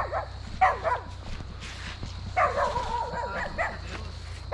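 A dog barking: a couple of short barks in the first second. About halfway through comes a longer drawn-out call, followed by a few more barks.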